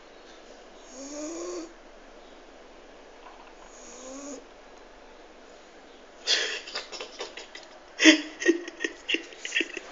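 A sleeping dog snoring: two snores in the first half, each a short rising tone with a breathy hiss. From about six seconds in, a run of loud, irregular crackling and clicking noises takes over.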